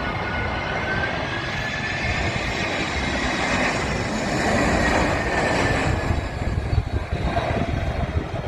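Jet engines of an Airbus A319 airliner coming in to land: a steady rush with a high whine that dips and rises slightly, building to its loudest about five seconds in. In the last two seconds strong gusty wind buffets the microphone.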